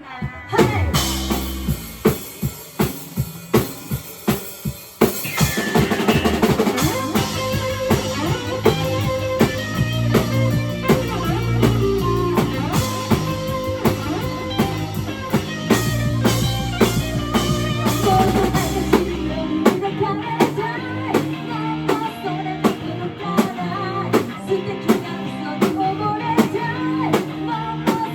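Live rock band playing an instrumental passage: drum kit on a steady beat with guitar and bass. The drums start out alone, and the full band comes in about five seconds in.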